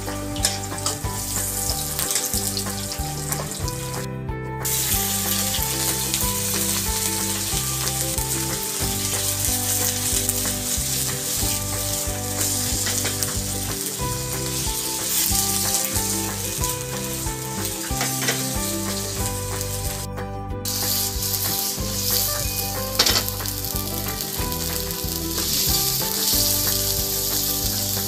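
Pork belly, onion, garlic and chilies sizzling and frying in hot oil in a nonstick wok, stirred now and then with a spatula. The sizzle breaks off briefly twice, and there is a sharp knock about two-thirds of the way through.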